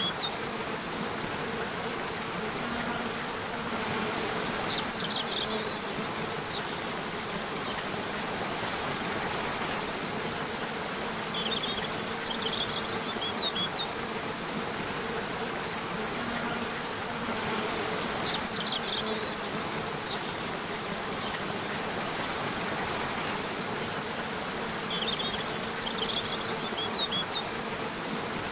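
Nature ambience: a steady insect buzz over an even hiss, with short clusters of high bird chirps coming back about every six to seven seconds.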